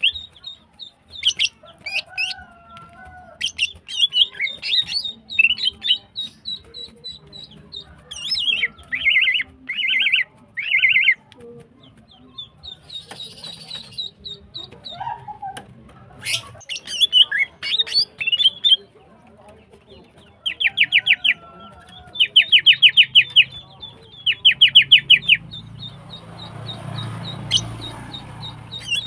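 Female greater green leafbird (cucak ijo) calling: sharp chirps and whistles broken by short, rapid rattling bursts, three in a row about a third of the way in and four more about two-thirds through. A soft rustle comes near the end.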